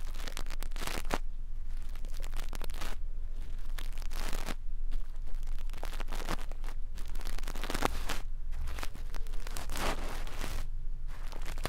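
Brush bristles stroking and scratching right at the microphone for ear-cleaning ASMR: a string of irregular rustling, scratchy strokes, each up to about a second long.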